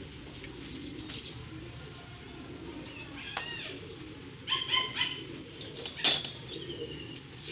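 Birds calling in the background, several short chirps about three and five seconds in, over a low steady background. A sharp click, the loudest sound, comes about six seconds in.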